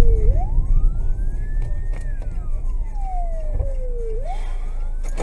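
Emergency vehicle siren wailing, slowly rising and falling in pitch about once every four seconds, over a low road rumble that fades toward the end.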